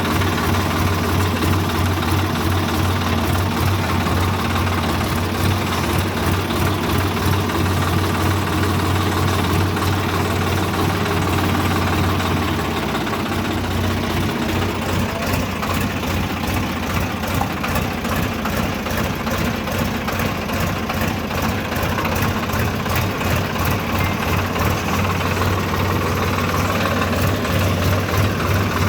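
Swaraj tractor's diesel engine running steadily. Its deep low hum drops away about halfway through and comes back near the end.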